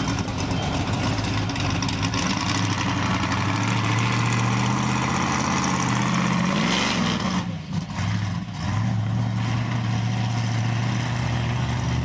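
Classic car engine running at low revs as the car rolls past. It gives a short rev-up about two-thirds of the way through, drops off briefly, then settles back to a steady low rumble.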